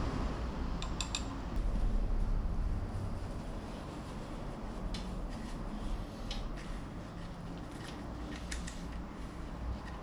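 Scattered light clicks and taps of small metal parts and hand tools being handled, over a steady low rumble.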